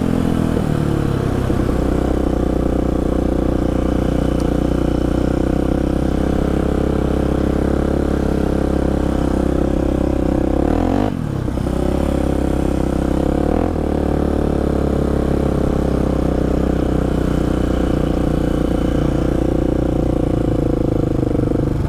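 Polaris Predator ATV engine running steadily under way on a trail ride. The revs dip briefly and come back up about eleven seconds in, and again a little later.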